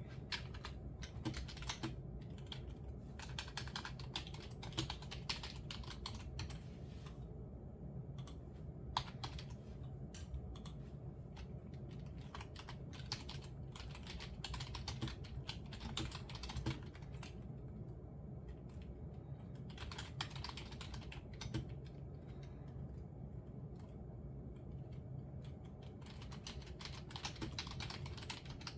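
Typing on a computer keyboard: runs of quick key clicks broken by pauses, over a steady low background hum.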